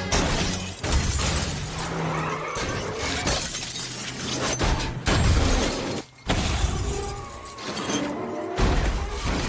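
Movie crash sound effects: glass shattering and repeated heavy impacts with sudden jumps in loudness, over a music score.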